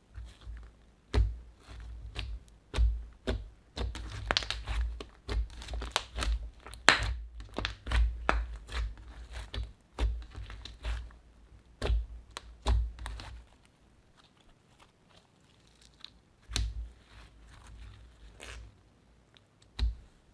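Slime being kneaded and pressed by hand, giving irregular sticky pops and crackles with soft squishy thumps. The pops come thick and fast at first and thin out to a few scattered ones for the last third.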